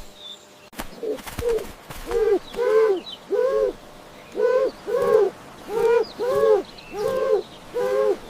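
A bird giving a series of about a dozen short hooting calls, each rising and then falling in pitch, often in pairs.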